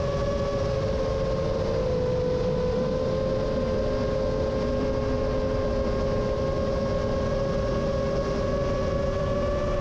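Rajawali Fold 7 quadcopter's electric motors whining steadily in flight, several close tones drifting slowly in pitch as the throttle shifts, over a heavy rumble of wind.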